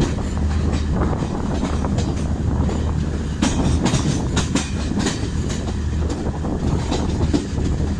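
Garib Rath Express coaches running over the track, wheels clattering over rail joints with a steady low rumble, heard from the coach doorway; the clatter gets busier around the middle.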